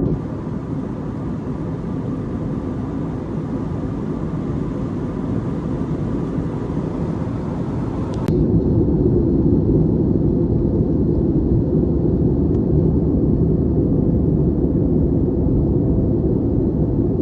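Steady roar of an Airbus airliner cabin in flight, the engines and rushing air heavy in the low end. About eight seconds in, a sharp click marks an abrupt change, and the noise then runs slightly louder with less hiss.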